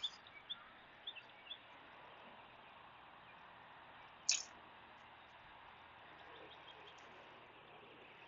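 Quiet background hiss with a few faint, short bird chirps in the first second and a half, and one sharp click about four seconds in.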